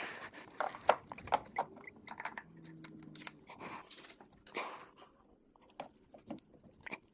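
Irregular small clicks, scrapes and rubbing as a rubber heater hose is pushed and twisted onto its metal coolant connector, at times with pliers.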